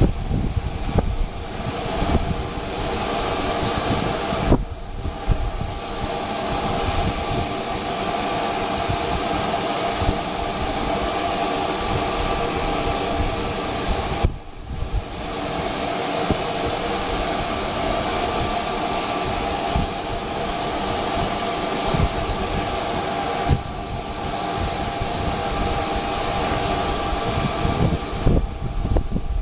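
Jet aircraft engines running steadily, a constant whine and hiss, with uneven low rumbling of wind on the microphone. The sound drops out briefly three times.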